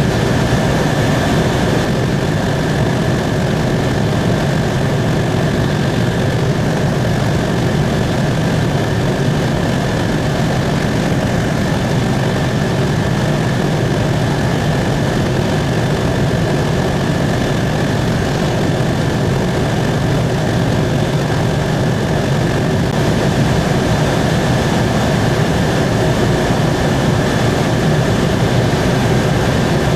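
Helicopter in flight: steady engine and rotor drone with a constant high whine over it.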